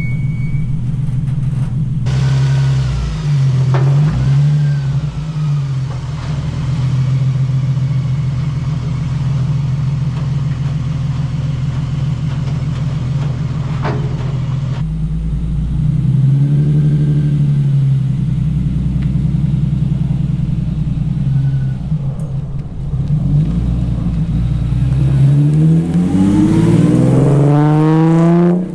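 A car engine running, its pitch rising and falling with the revs and climbing steeply near the end as it accelerates. The sound changes abruptly a couple of times, as if cut between clips.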